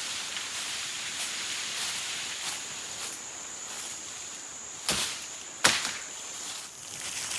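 Insects calling in a steady high-pitched drone over a hiss. Two sharp knocks or snaps come about five seconds in, half a second or so apart.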